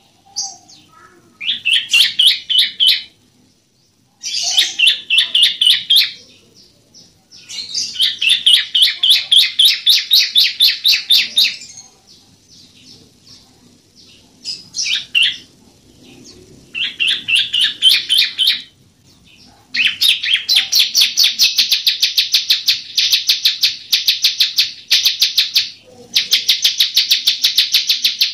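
Bar-winged prinia (ciblek) singing: phrases of fast, high, evenly repeated chipping notes, each a second to a few seconds long, with short pauses between them. The longest phrase, about six seconds, comes past the middle.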